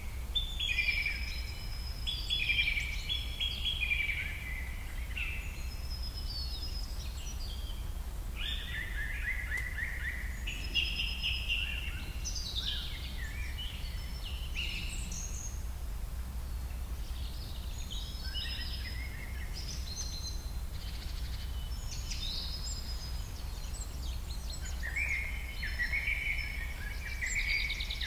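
Birds chirping and singing in short phrases with brief pauses, over a steady low hum.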